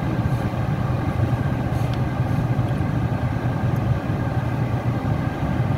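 Tata Tiago's 1.2-litre three-cylinder Revotron petrol engine idling, heard from inside the cabin as a steady low hum.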